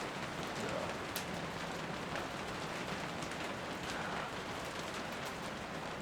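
Steady rain falling, with many small drops tapping close by and one sharper tap about a second in.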